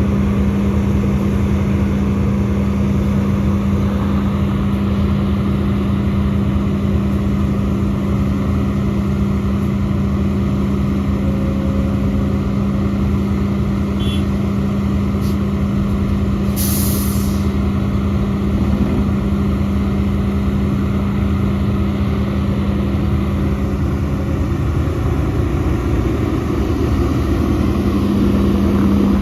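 Heavy diesel engine running at steady high revs, its pitch held level. It dips slightly near the end and climbs again. About halfway through there is a short, sharp hiss of air lasting about a second.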